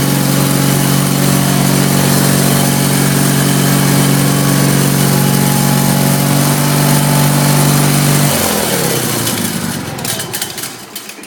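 Case 446 hydraulic-drive garden tractor engine running loud and steady, then shut off about eight seconds in, its pitch falling as it winds down to a stop.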